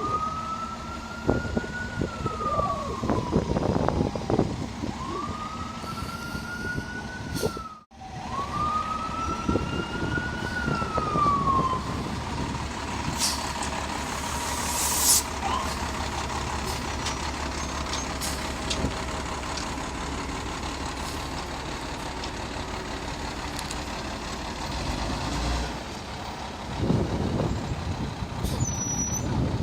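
A siren wailing in slow sweeps that rise and fall about every four seconds, over the steady low rumble of a vehicle. The siren stops about twelve seconds in and the rumble carries on.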